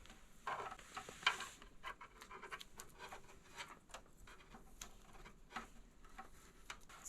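Faint rustling, scratching and small clicks of hands wrapping tape around a bundle of spliced wires.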